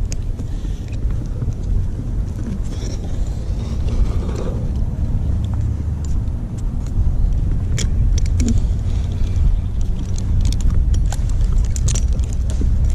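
A steady low rumble, with scattered light clicks and clinks in the second half.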